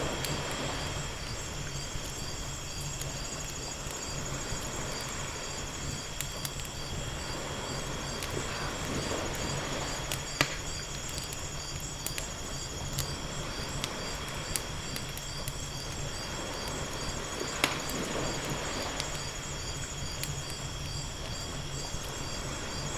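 Wood fire crackling with scattered ticks and two loud sharp pops, over ocean waves washing in and out in slow swells about every nine seconds. A steady, pulsing high chirping of insects such as crickets runs underneath.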